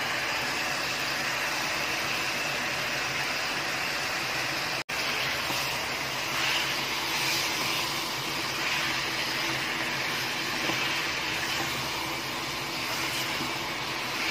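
Keema masala with freshly added chopped tomatoes and green chillies sizzling steadily in a hot aluminium pressure cooker pan as it is stirred. The sound cuts out for an instant about five seconds in.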